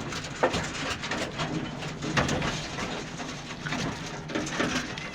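Nutrias feeding in their cages: a run of sharp clicks and rustles, with low cooing calls now and then.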